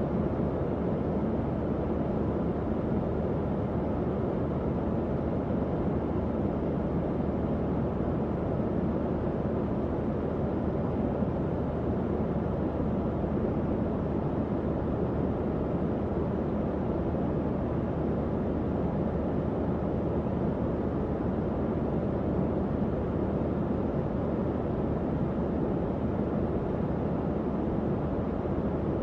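Tower fan running steadily: an even, low-pitched whoosh of moving air with a faint motor hum underneath.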